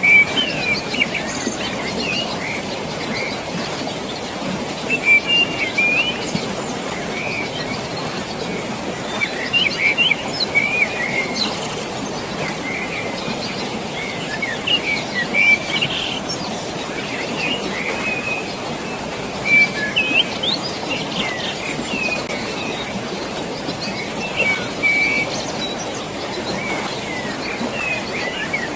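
Birds chirping in short, scattered calls over a steady rush of flowing water.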